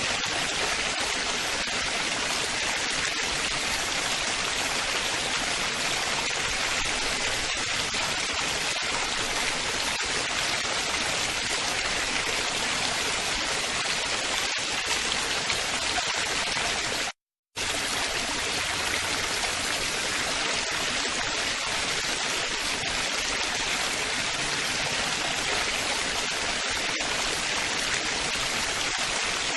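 Steady babbling, splashing water from a stream or small waterfall. It cuts out completely for a split second about seventeen seconds in, then carries on unchanged.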